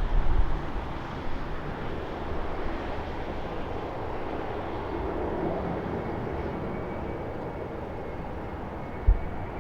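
Airbus A320 airliner's jet engines approaching to land: a steady broad rumble and hiss, with a faint high whine that slowly rises in pitch from about halfway through. Wind buffets the microphone at the start and once near the end.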